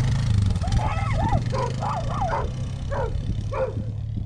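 A dog yipping and barking in a quick series of short calls, over the Honda's engine running steadily.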